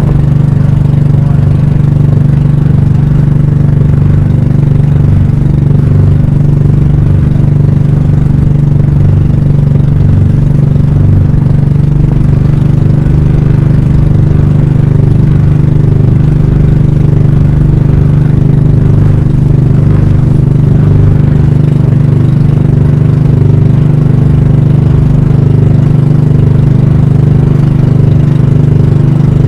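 A banka (pump boat) engine running loud and steady at a constant speed, with no change in pitch.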